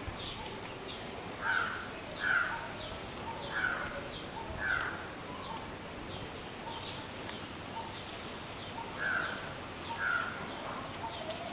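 Birds calling: short high chirps repeat about twice a second throughout, while a louder bird calls in two runs, four calls about a second apart and then two more near the end.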